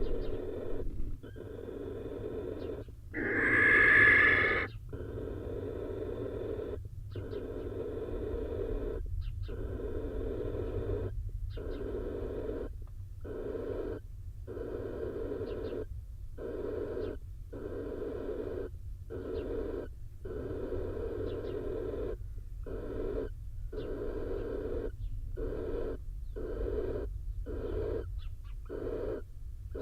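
Barn owl in the nest box giving rasping hiss or 'snore' calls, repeated about once a second, with one louder, higher screech about three seconds in.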